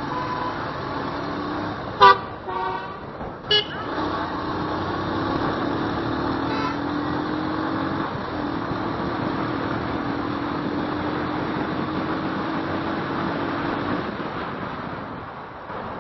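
Motorcycle engine running under throttle with road and wind noise, its note held fairly steady, easing off near the end. A vehicle horn honks sharply about two seconds in, followed by shorter honks over the next second and a half.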